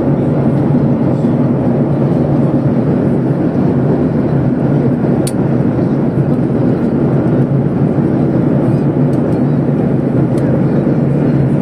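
Passenger airliner cabin noise in flight: a steady low rumble of engines and airflow. There is one faint click about five seconds in.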